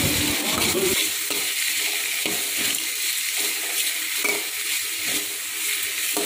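Chopped onions, tomatoes and green chillies sizzling in hot oil in a metal kadai while being sautéed, with a metal spoon stirring and scraping against the pan in repeated strokes.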